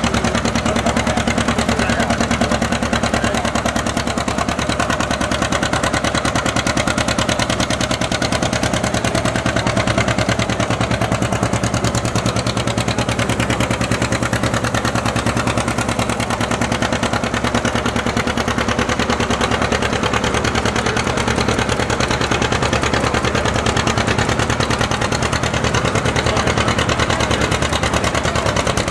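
A 1958 John Deere 720's propane-fuelled two-cylinder engine running steadily with an even, rapid pulse, pulling the sled in an antique tractor pull.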